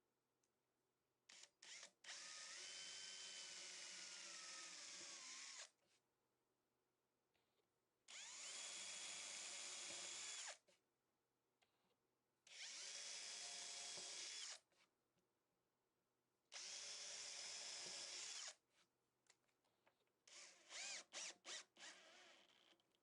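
Electric drill run in four spells of a few seconds each, its motor whine dipping slightly in pitch during the first run, then given a rapid series of short trigger blips near the end.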